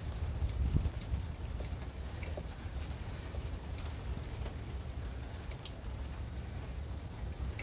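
Rain falling and dripping, with scattered light ticks over a steady low rumble.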